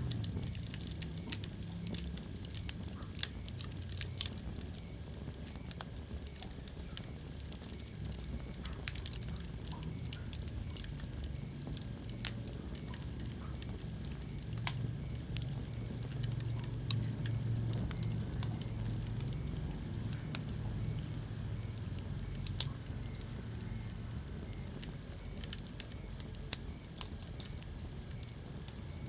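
Wood fire crackling in a fireplace: irregular sharp pops and snaps, a few of them louder, over the low steady rumble of the flames.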